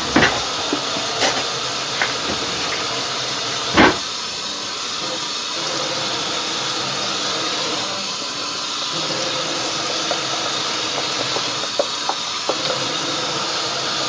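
Steady hiss throughout, with a few knocks and clicks of a utensil against a bowl as water is added to pancake mix and stirred. The loudest knock comes about four seconds in, and fainter clicks follow near the end.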